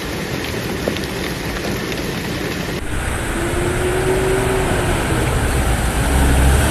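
Heavy rain and floodwater rushing through a street: a steady, loud hiss of water with a low rumble that grows toward the end. The sound shifts about three seconds in, and a faint hum is held briefly in the middle.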